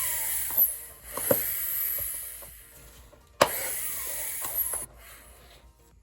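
Air pump hissing through the oil furnace's fuel line in three bursts, the last starting with a sharp click, as it sucks diesel back into the line after the clog has been cleared.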